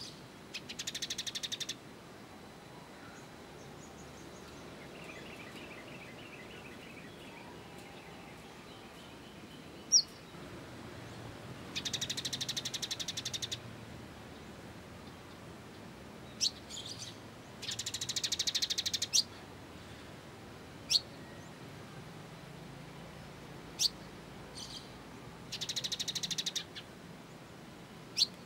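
Small songbirds calling on a birdsong training recording: four bursts of rapid, high chattering about a second and a half long, with single sharp, high chips in between and a fainter trill a few seconds in.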